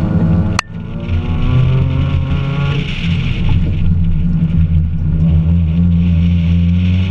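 Mazda3's 2.0-litre four-cylinder engine, fitted with an aftermarket intake and header, accelerating hard: the engine note climbs in pitch, eases off around three seconds in, then climbs again, over a steady hiss. A single sharp click about half a second in.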